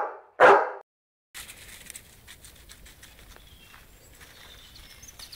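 A short loud burst about half a second in, then, after a moment of dead silence, faint outdoor ambience of a walk: light scattered steps and patter, with a few faint bird chirps.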